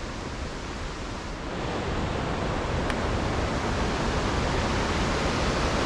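Waterfall: a steady rush of falling water that grows louder about a second and a half in, then holds.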